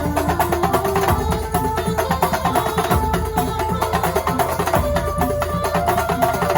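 Kuntulan music from Banyuwangi: fast, dense drumming with a melody line that steps between held notes over it.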